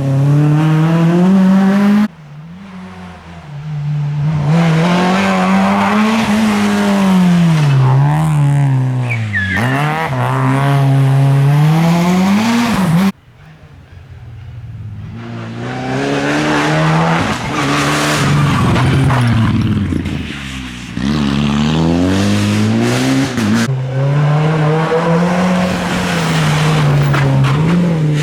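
Rally cars driven hard on a stage, their engines revving up and dropping back again and again through the gears, with some tyre squeal. The sound cuts off abruptly about 2, 13 and 24 seconds in and picks up on another run each time.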